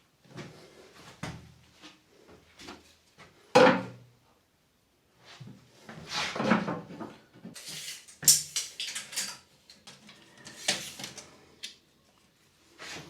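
Hand work noises: objects being handled and set down, with a heavy knock about three and a half seconds in, scraping a few seconds later, then a run of sharp clattering knocks.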